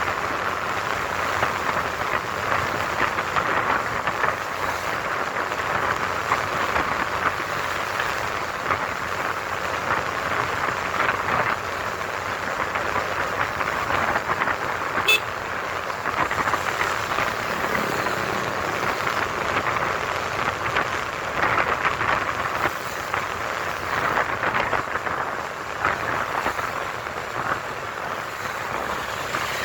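Steady rushing wind and road noise picked up by a camera on a moving motorcycle in traffic, with a brief sharp click about halfway through.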